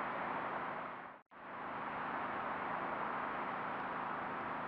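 Steady rushing rumble of a passing train, even in level. It cuts out abruptly for a split second about a second in, then carries on unchanged.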